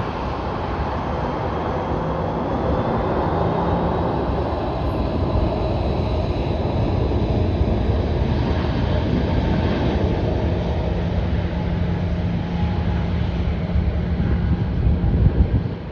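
Jet airliner's engines, a loud steady rumble with a faint high whine, as an aircraft takes off or lands.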